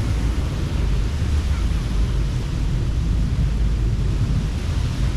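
Ocean surf washing steadily onto the beach, with wind buffeting the microphone as a heavy low rumble under the hiss of the waves.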